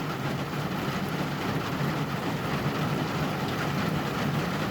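Rain falling steadily, an even rushing noise with no breaks.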